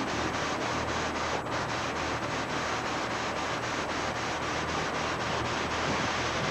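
Diesel train engine running steadily: a low drone under a constant rushing hiss.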